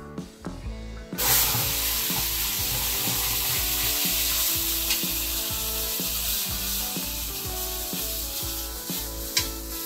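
Onion, ginger and green chilli paste hitting hot ghee in an aluminium kadhai: a loud sizzle starts suddenly about a second in and carries on steadily. A steel spoon stirs and scrapes the paste around the pan.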